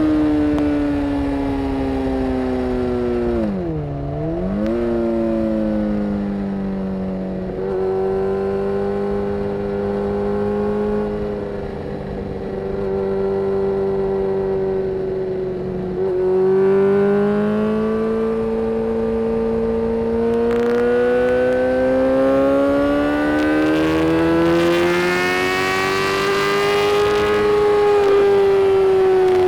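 Yamaha FZ6N's inline-four engine through an aftermarket Two Brothers exhaust, heard while riding: the revs drop sharply and pick up again about four seconds in, hold steady for a while, then climb gradually through the second half before easing off near the end.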